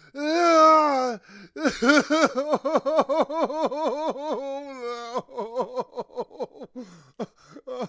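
A person crying: a long wailing sob that falls in pitch, then a run of quick gasping sobs, about four a second, a briefly held cry, and shorter broken sobs near the end.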